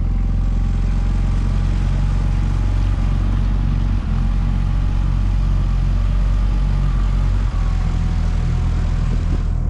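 Small boat outboard motor running steadily at low, even revs, with two brief dips in level, about four seconds in and again near the end. This is the motor that began puttering and would not push the inflatable past about 5 mph.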